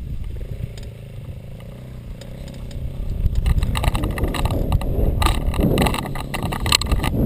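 Dirt bike engine running steadily at idle, then growing louder and rougher, with crackling noise, from about three seconds in.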